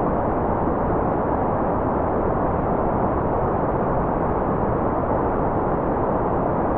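Continuous white noise: an even, unchanging rush with no breaks or rhythm, fuller in the lows and mids than in the treble.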